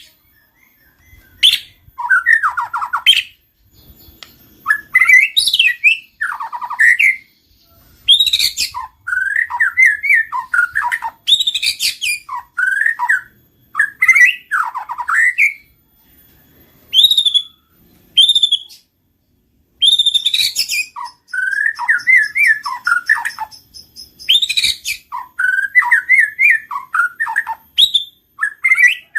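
White-rumped shama singing: loud bursts of varied warbling, gliding whistled phrases separated by short pauses, with a few short high whistles partway through and a buzzy high rattle in the second half.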